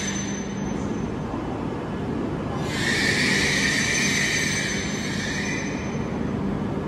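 Train running, a steady rushing noise with a hiss that drops away about half a second in and comes back around three seconds in.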